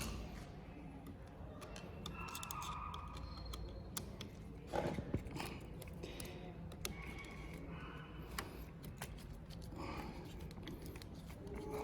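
Light clicks, taps and small metallic rattles of motorcycle parts and hand tools being handled while a handlebar riser and its bolt are fitted, with a slightly louder knock about five seconds in.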